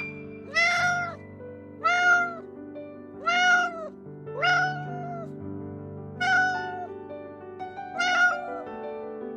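Domestic cat meowing six times, one meow about every second and a half, over soft background music with steady held notes.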